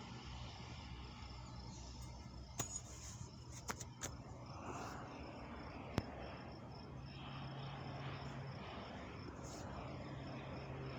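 Insects chirping in a fast, even row of high pulses over a low steady hum, with a few sharp clicks a couple of seconds in and one more about six seconds in.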